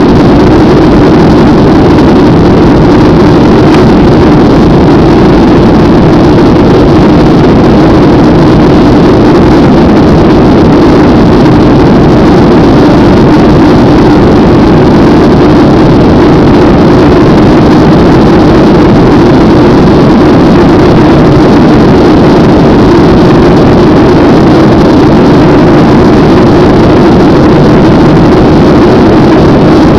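Airliner's jet engines and rushing air in flight, a loud steady drone that does not change.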